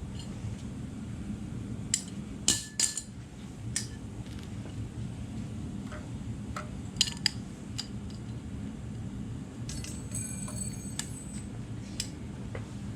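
Scattered sharp metallic clinks and taps of tools and parts handled while fitting a drive-shaft universal joint, with a brief metallic ring about ten seconds in, over a steady low hum.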